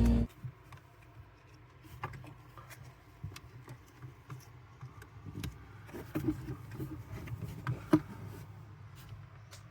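Rock music cuts off just at the start, then quiet handling noise: scattered rustles, small clicks and taps of a paper letter and stickers being handled, with a sharper tap about eight seconds in over a faint steady hum.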